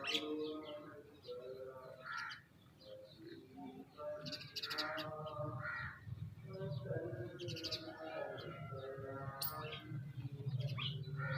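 Crows cawing repeatedly amid chirps from smaller birds feeding together, over a low steady hum.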